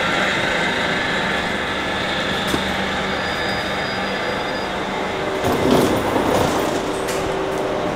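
Double-deck TGV train standing at the platform, giving off a steady hum with several held tones. A brief louder noise rises over it about six seconds in.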